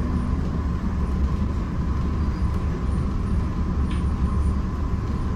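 Steady low rumble of a moving suburban passenger train heard from inside the carriage, with a steady whine running under it.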